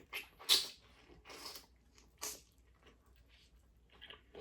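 Close-miked eating sounds: a few short wet mouth smacks and chews on seafood, the loudest about half a second in, then quieter chewing.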